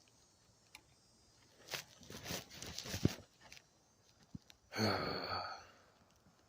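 A man's drawn-out voiced sigh, lasting about a second past the middle. Before it come faint rustling and a sharp click.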